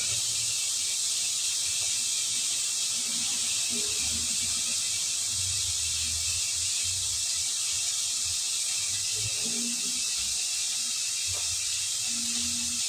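Steady sizzling hiss of food sautéing in a hot pan.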